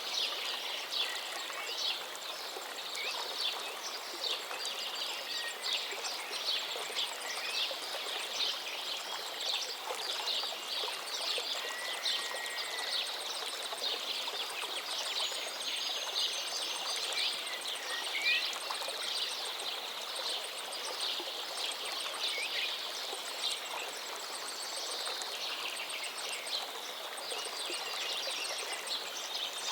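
River flowing steadily, with many birds chirping and singing over it in a busy chorus of short, quick calls.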